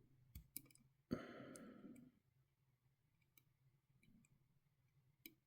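Faint scattered clicks and taps of small plastic model-helicopter parts being handled as a rotor is worked onto its mounting pin. About a second in there is a sharper click, followed by a sigh lasting about a second.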